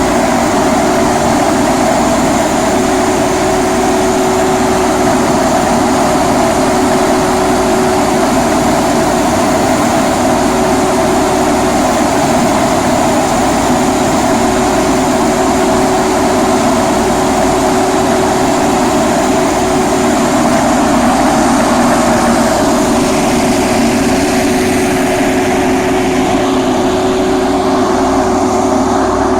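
Tub grinder (rotating-tub wood shredder) running steadily while shredding waste wood: a loud, unbroken machine noise with a constant hum.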